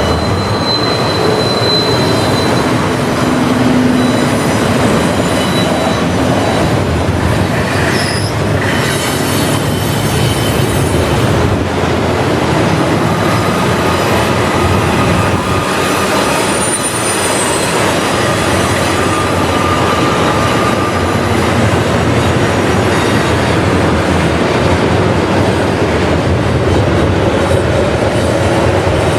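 Freight train cars rolling past close by: a steady rumble and clatter of steel wheels on rail, with thin high wheel squeals coming and going.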